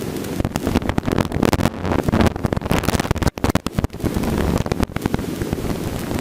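Helicopter cabin noise in flight: a steady low rotor-and-engine rumble overlaid with dense, irregular crackling and buffeting on the microphone.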